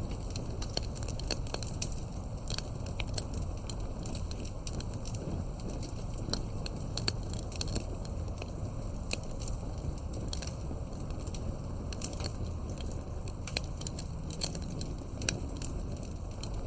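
Wood campfire crackling: frequent irregular sharp pops and snaps over a steady low rush of the burning fire.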